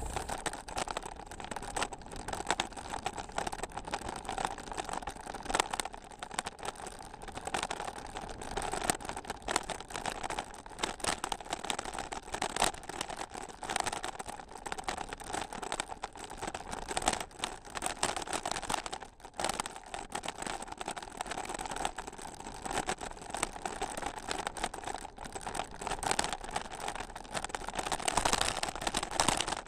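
Continuous crunching and rattling of travel over a rough gravel trail, a dense run of irregular clicks and knocks.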